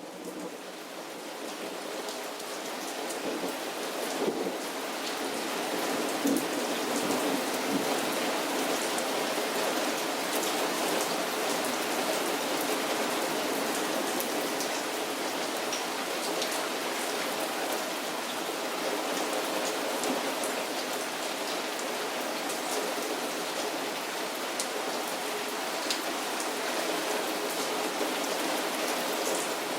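Heavy rain pouring steadily, with many individual drops pattering on hard surfaces close by. It builds over the first few seconds, then keeps up at full strength.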